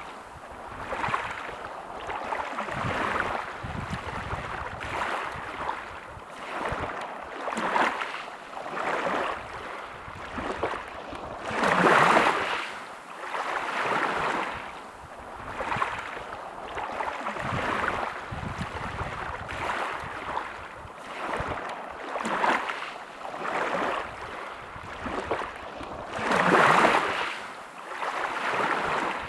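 Sea waves washing onto a shore: repeated swells of rushing water every second or two, with a bigger surge about twelve seconds in and another near the end.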